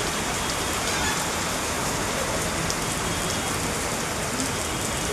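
Heavy rain falling steadily: a dense, even hiss of drops striking the ground.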